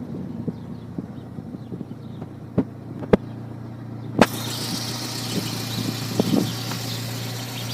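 A car engine idling with a steady low hum. A few sharp clicks come in the first half, and a brighter hiss joins suddenly about four seconds in.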